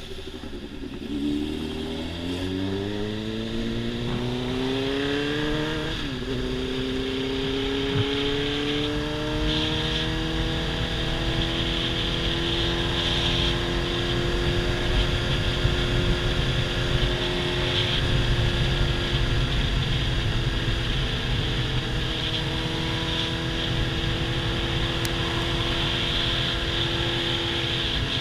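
Motorcycle engine accelerating, its pitch climbing for about six seconds, then dropping sharply at a gear change. It then holds a steady cruising note that rises and falls only slightly, over a constant rush of wind and road noise.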